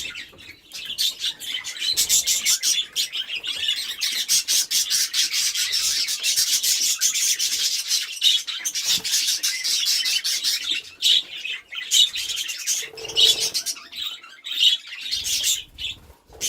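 A flock of budgerigars chattering: a dense, fast, scratchy twittering that runs on with a few short lulls.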